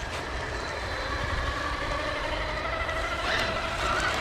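Electric RC monster truck's brushless motor and drivetrain whining as it drives, sounding smooth, with a rise in pitch about three seconds in as it speeds up, then easing off.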